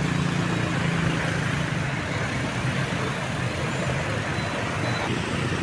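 Street traffic noise: a steady wash of road noise, with a low engine hum that fades out about a second and a half in.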